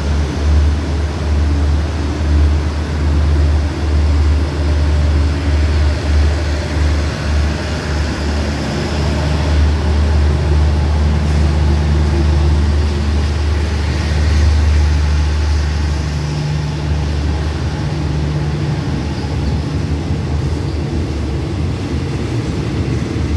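Passenger train coaches rolling slowly past a station platform, a steady low rumble.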